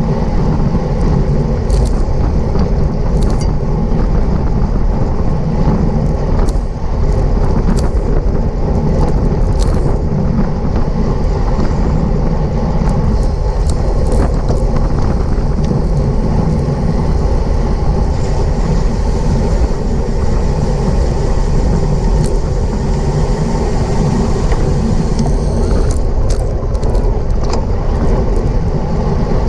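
Wind rushing over a bicycle racer's action-camera microphone at race speed, with scattered short clicks and knocks from the bike.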